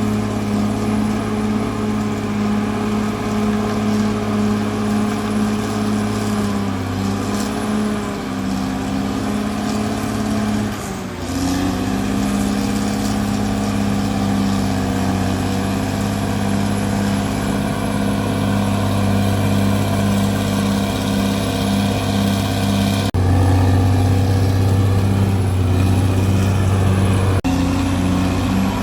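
CAT D6R bulldozer's diesel engine running steadily under load. Its note dips briefly about eleven seconds in, then picks back up, and it grows louder near the end.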